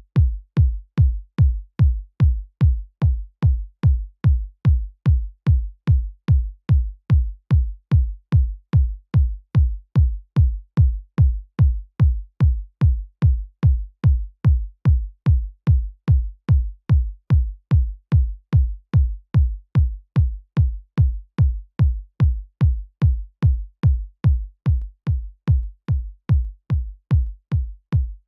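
Synthesized electronic kick drum looping alone, four-on-the-floor at about two hits a second. Each hit is a short click attack with a deep bass body that drops quickly in pitch.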